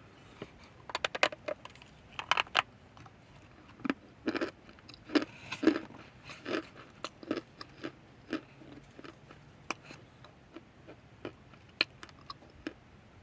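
Chunks of pure cornstarch being bitten and chewed: crisp crunching bites in thick clusters through the first half, thinning to occasional crunches later.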